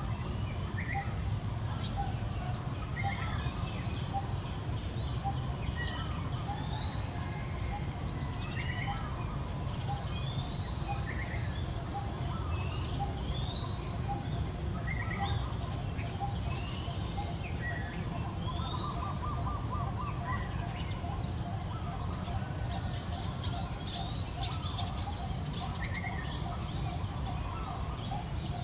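Small wild birds chirping throughout, many short, quick calls sweeping in pitch, over a steady low background rumble.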